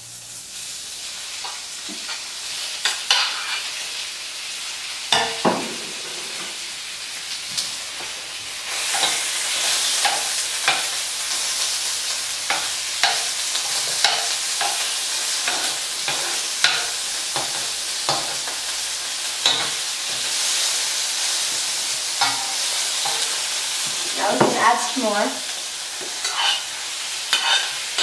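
Chicken pieces sizzling in hot olive oil in a wok, with a utensil clinking and scraping against the pan as they are stirred and turned. The sizzle grows louder about a third of the way in.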